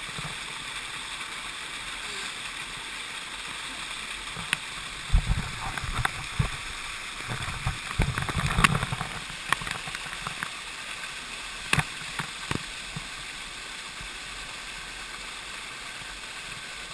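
Waterfall water rushing in a steady hiss, with a scattering of short knocks and thumps, most of them in the middle stretch.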